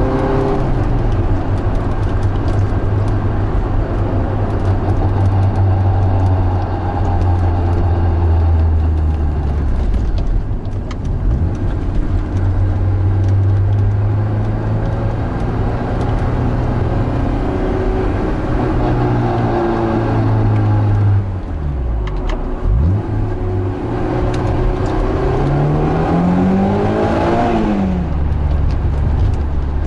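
Honda S2000's four-cylinder engine running under way. Its pitch holds steady for the first two-thirds, then the revs twice climb and drop off sharply, once around twenty seconds in and again near the end.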